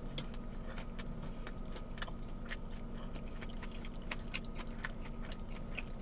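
A person chewing a mouthful of crispy chicken sandwich: soft crunches and wet mouth clicks at irregular intervals, over a steady faint hum.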